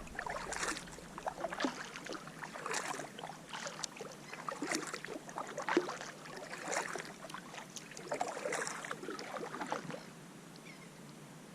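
Kayak paddle strokes in the water, a splash about once a second, alternating as the blades dip and pull, stopping near the end.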